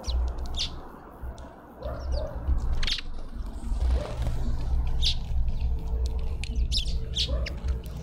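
Small birds at a seed feeder giving short, sharp chirps, scattered irregularly and more frequent in the second half, over a low background rumble.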